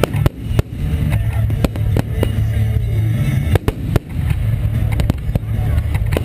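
Aerial firework shells bursting overhead in quick succession: a dozen or more sharp bangs at uneven intervals of a fraction of a second, over a steady low rumble.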